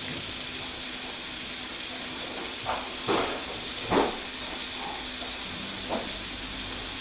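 Mutton seekh kababs frying in a pan in a little oil: a steady sizzle, with a few brief louder swells about three and four seconds in.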